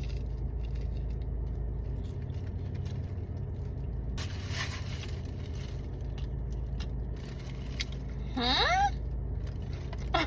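A person eating, taking a first bite of a loaded chicken-and-cheese sandwich, with faint chewing clicks and a short crinkly rustle about four seconds in. Near the end comes an approving 'mmm' that rises and falls in pitch. A steady low hum runs underneath.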